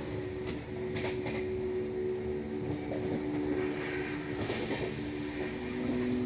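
Steady rumble and hiss of a moving vehicle, with a few held tones over it.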